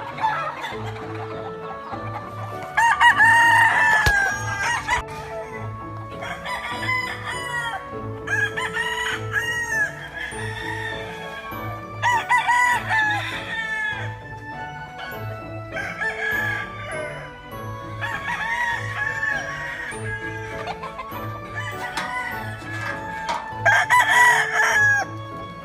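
Several gamefowl roosters crowing one after another, a crow every few seconds, the loudest about three seconds in and near the end, over background music with a steady beat.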